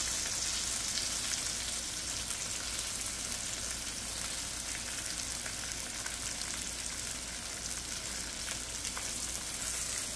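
Chicken pieces and green chillies sizzling in hot oil in a karahi: a steady hiss with scattered small pops of spattering oil.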